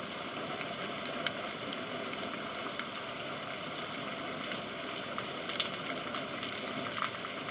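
Steady rain falling: an even hiss scattered with sharp drop ticks.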